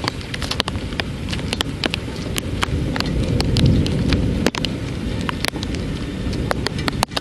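Heavy rain falling steadily during a thunderstorm, with many single drops striking close by as sharp taps. A low rumble swells briefly around the middle.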